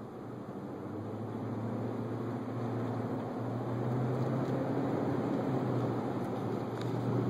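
Car engine and road noise heard from inside the cabin: a steady low hum over a wash of tyre noise, growing gradually louder.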